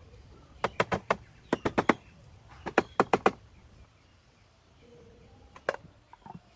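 Hammer tapping in three quick bursts of four or five sharp strikes each, then a single knock near the end.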